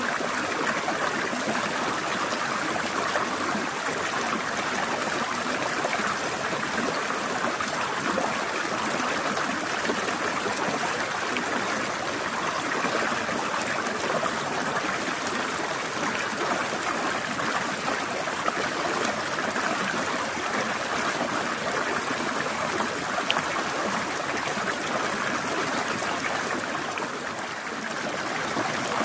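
Forest stream trickling and splashing over rocks: a steady rush of flowing water with small irregular splashes, dipping slightly near the end.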